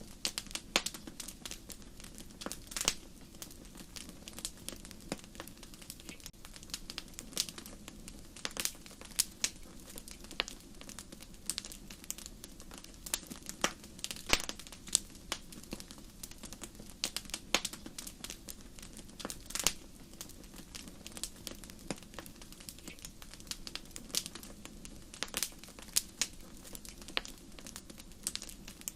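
Wood fire crackling and popping in a fireplace: irregular sharp snaps, several a second, over a steady low rumble of the flames.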